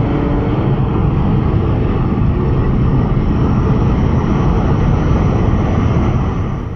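Cars at full speed down a quarter-mile drag strip: a loud, steady rush of wind and road noise, with a faint rising whine high up, falling away near the end as the run ends.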